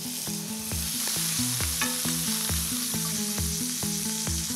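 Diced pancetta sizzling steadily as it fries in hot olive oil in an enamelled pan, the fat just starting to render. Background music with a steady beat plays underneath.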